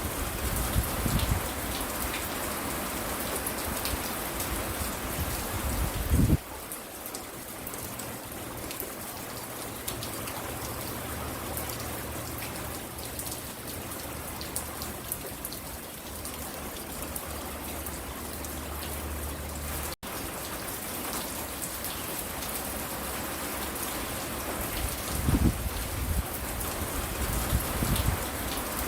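Steady rain falling, an even hiss of drops with a few short low thumps near the start, about six seconds in, and again near the end. There is a momentary dropout about twenty seconds in.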